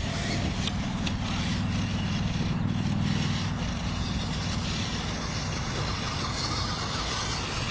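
Steady low drone of a scale RC crawler truck's electric motor and drivetrain working under load as it grinds through rocks, strongest over the first few seconds.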